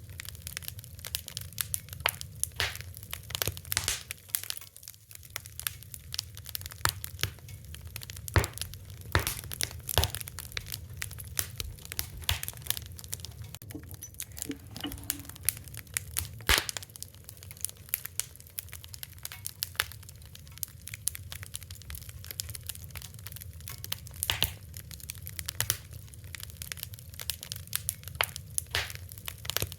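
Wood fire crackling: irregular sharp pops and snaps, some louder, over a steady low rumble of burning.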